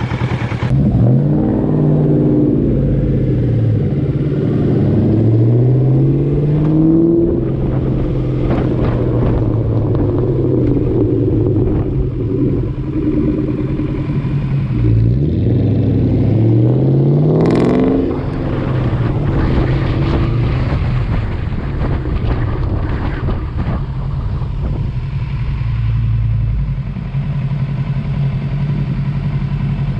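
Motorcycle engine accelerating in rising revs several times, as it goes up through the gears, then running at a steady cruising speed.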